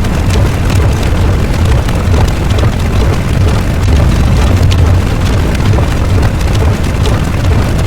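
Loud, continuous noise sound effect with a heavy low rumble, steady and unbroken throughout.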